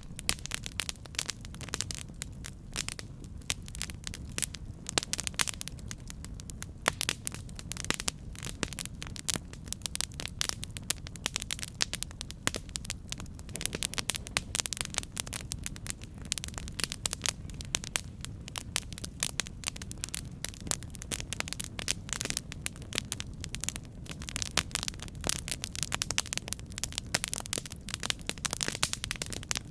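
Campfire burning, the wood crackling and popping in dense, irregular snaps over a steady low rumble of the flames.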